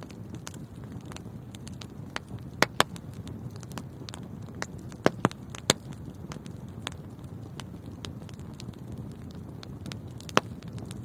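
Wood fire burning in a fireplace: a steady low rumble of flames with scattered sharp crackles and pops, the loudest ones in quick pairs a few seconds apart.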